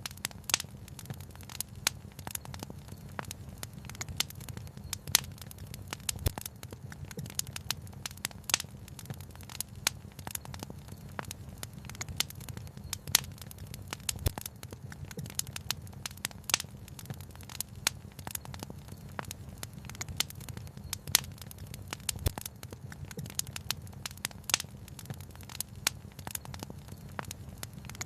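Wood fire crackling: a dense, irregular run of small snaps with louder pops every second or two, over a steady low rumble.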